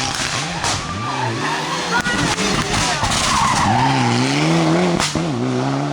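Rally car sliding round a hairpin, its engine revving up and dropping back several times with the tyres skidding.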